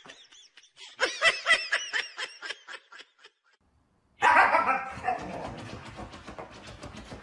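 A young puppy gives a quick run of high, arching yips and whines. After a short silence, a husky lets out one loud call that falls in pitch, followed by rapid rhythmic breathing.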